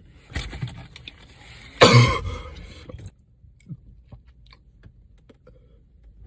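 A person coughs once, harshly and loudly, about two seconds in, after some brief scraping noises.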